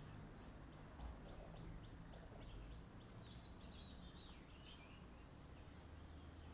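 Faint bird calls: a quick run of short, high notes at about four a second, then a wavering, warbling phrase about three seconds in.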